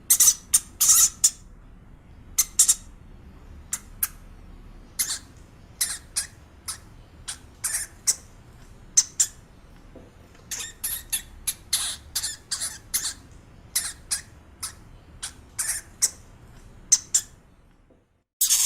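A small pet animal making many short, high-pitched squeaks at an irregular pace. A faint steady hiss runs under them, and there is a brief break near the end.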